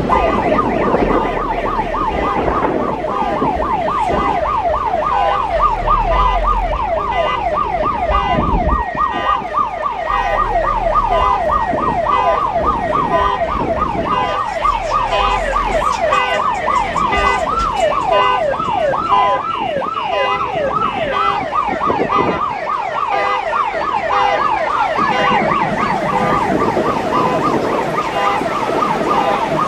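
Electronic yelp siren wailing rapidly up and down, several sweeps a second, without a break, cutting off near the end.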